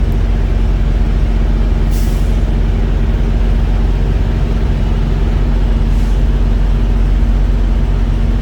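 Truck engine idling with a steady low hum. Two faint light clicks come about two seconds and six seconds in.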